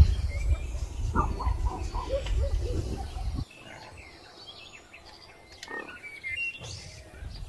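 Birds chirping outdoors over a heavy low wind rumble on the microphone. The rumble stops abruptly about halfway through, leaving quieter ambience with scattered bird chirps.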